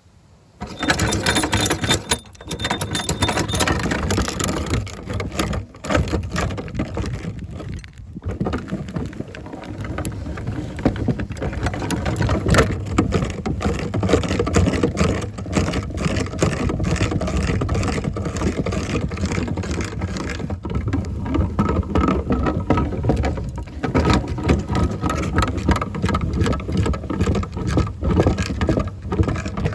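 Meat grinder starting suddenly about half a second in and running while grinding a bar of soap: a dense churning noise full of small clicks, with a couple of brief dips.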